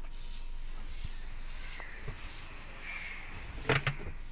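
Quiet stationary car interior with a faint steady low hum, and two sharp clicks close together near the end.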